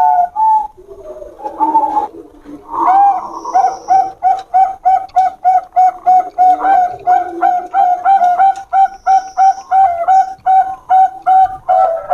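Zebra doves (perkutut, Bangkok type) cooing. A few coos and some softer, lower cooing give way, about three seconds in, to a long even run of short coo notes, roughly three a second.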